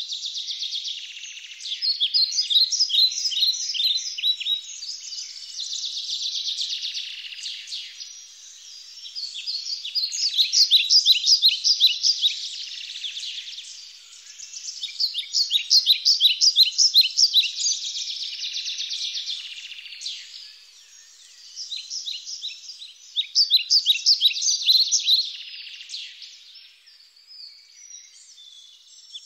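A songbird singing: phrases of rapid, high-pitched repeated notes a few seconds long, one after another with short pauses between.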